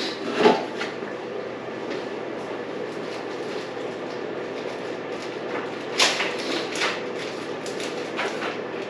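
Small clicks and plastic rattles of a dirt bike's fuel line connector and fuel pump wiring plug being unclipped from the gas tank: one click about half a second in and a quick run of sharper clicks around six seconds in, over a steady background noise.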